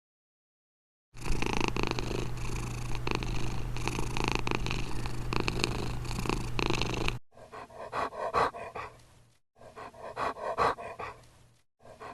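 An animal's low rumbling sound over a steady hum for about six seconds, then three short clips of rhythmic pulsing sounds, each cut off suddenly.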